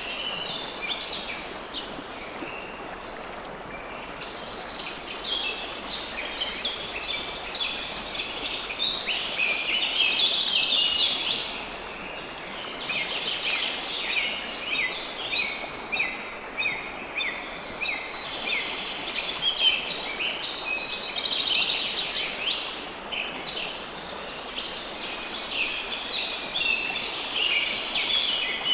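River water flowing steadily, with many birds chirping over it in a dense chorus of short, overlapping high calls.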